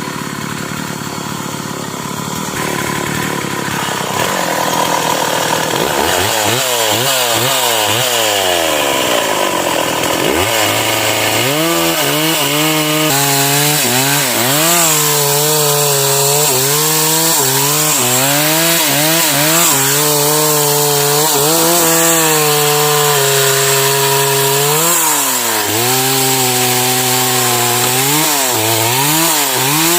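Stihl MS 381 two-stroke chainsaw cutting a sengon trunk: after a few seconds of noisy hiss, the engine's pitch swings up and down repeatedly, dipping as the chain bites under load and revving back up.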